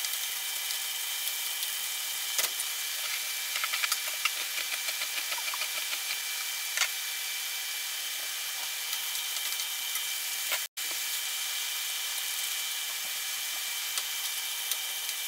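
Diced chicken, peppers and onions sizzling in a skillet, a steady hiss, with a wooden spoon scraping and tapping against the pan now and then.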